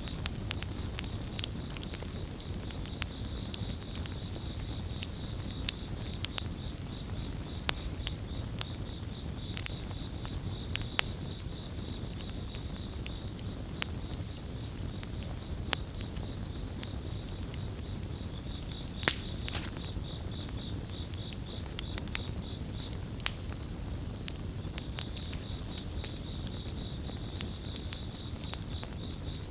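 Wood campfire crackling with frequent sharp pops, one louder pop about two-thirds of the way through, over a low steady rumble. Crickets chirp in a fast, even trill that fades out in the middle and comes back near the end.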